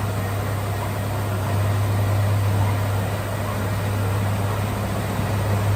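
Diesel engine of earth-moving equipment running steadily under load, with a deep, continuous hum that grows slightly louder about a second and a half in.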